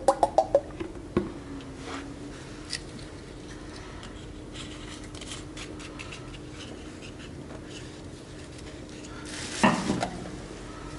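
Light metallic clinks and handling noises of tools and parts, with a louder clatter about ten seconds in, over a faint steady hum.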